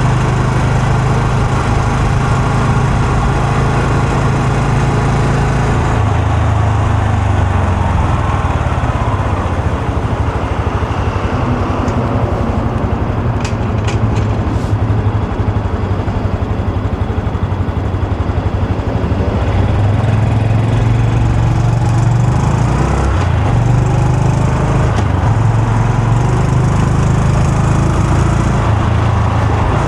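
Honda Super Cub C125's single-cylinder four-stroke engine and exhaust running under way, the engine note falling and rising with throttle and gear changes. It rises in pitch a couple of times in the second half as it accelerates, with a few brief clicks in the middle.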